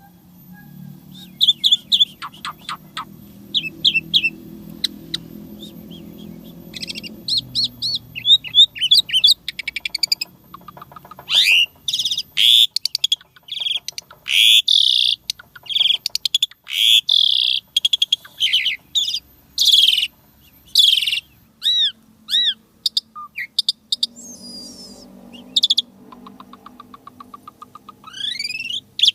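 Asian pied starling (jalak suren) singing a busy, varied song: clusters of chirps and whistles, a run of loud, sharp notes through the middle, and a few clear downward-curving whistles. A faint low hum sits underneath at the start and again near the end.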